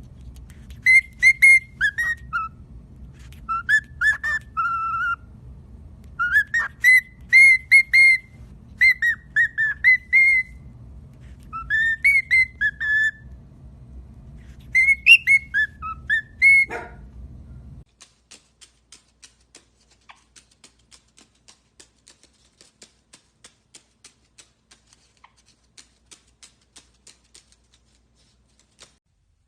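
A pet bird whistling a string of short, clear, tune-like phrases over a low steady hum, stopping abruptly about eighteen seconds in. After that comes a run of faint quick ticks or taps, several a second.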